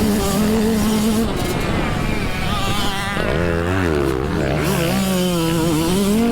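Dirt bike engine on a motocross track, revving up and down as the rider works the throttle and gears; the pitch dips and climbs again about halfway through.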